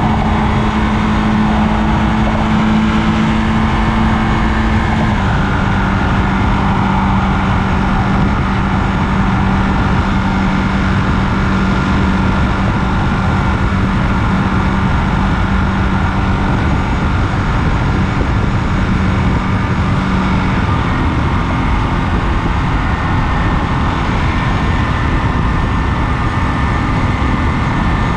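Ducati Monster 937's 937 cc L-twin engine running steadily at highway speed under heavy wind rush. Its note dips a step about five seconds in and changes again near the end.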